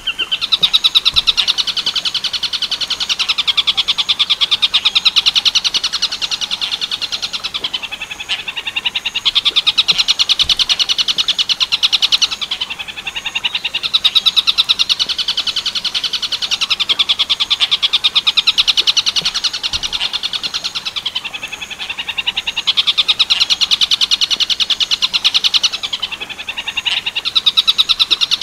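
Tengkek buto bird song: a long, fast, rattling trill at high pitch, swelling and easing in phrases of several seconds, with brief dips about 8, 13, 21 and 26 seconds in.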